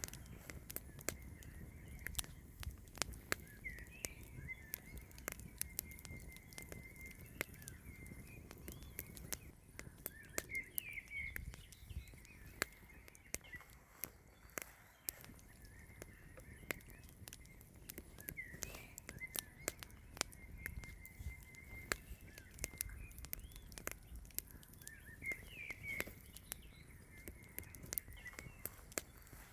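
Birds chirping in short, repeated phrases over quiet outdoor ambience, with frequent sharp, irregular clicks and crackles.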